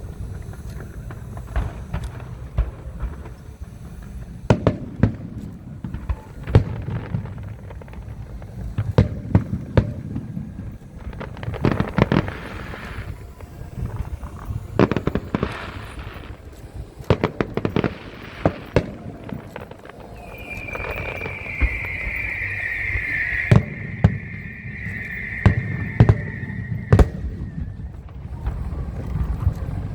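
Fireworks display: aerial shells bursting in a run of sharp bangs over a low rumble, with stretches of hissing crackle. From about two-thirds of the way in, a loud high shrill whistle runs for several seconds, dropping slightly in pitch.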